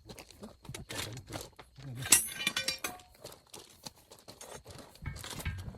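Scattered light knocks and clinks, with a louder clink about two seconds in.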